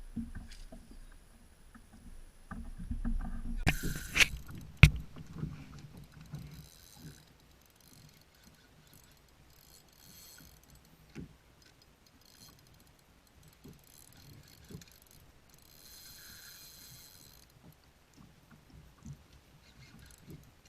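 Handling and knocking sounds aboard a fishing kayak, busiest in the first few seconds, with a sharp knock about five seconds in. Then quieter stretches with a few short bursts of high hiss.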